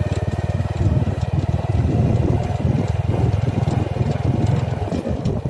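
A heavy machine's engine running steadily, with a fast, even pulse.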